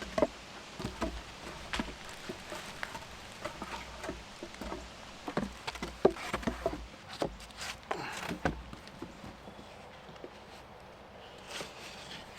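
Pieces of wood being handled and set down: irregular knocks and light clatter with some rustling. It is busiest for the first eight seconds, then quieter.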